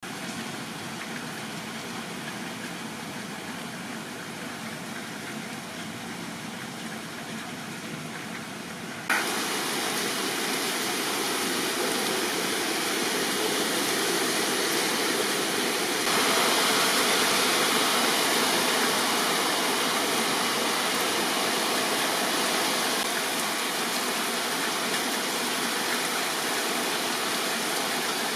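Heavy typhoon rain pouring down in a steady hiss, which jumps suddenly louder about nine seconds in and again at about sixteen seconds.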